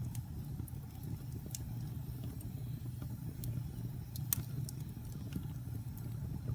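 Wood fire burning in a fireplace: a steady low rumble of the flames with scattered sharp crackles and pops from the burning wood, the loudest pop about four seconds in.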